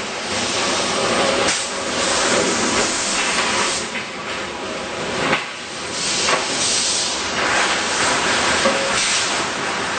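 Resistance rolling seam welding machine for jerrican tubes running, giving a loud, steady hiss with a sharp click about five and a half seconds in.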